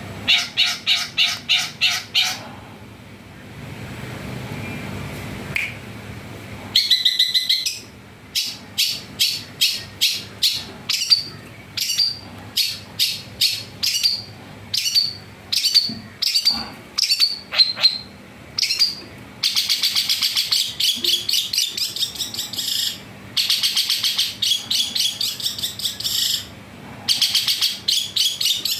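A songbird singing loud, rapid phrases of short, fast-repeated notes, stuttering like a rattle, broken by short pauses, with one longer unbroken run near the end.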